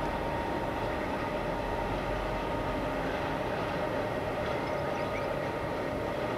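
Oigawa Railway Ikawa Line train, hauled by an ED90 electric rack locomotive on the steep Abt rack section, heard from a distance: a steady running noise with a constant whine held underneath it.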